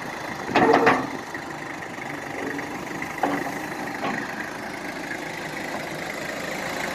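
Farm tractor engine running steadily while working a silage pile with its loader, with a brief louder burst about half a second in and a couple of small knocks later.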